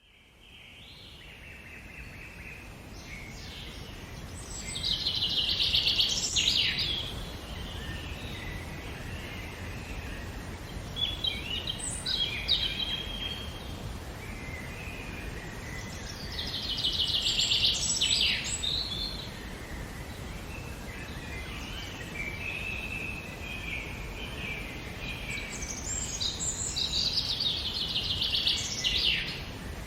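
Wild birds singing: loud trilled song phrases recur about every five to ten seconds, with quieter chirping between, over a steady low background rumble. The sound fades in over the first few seconds.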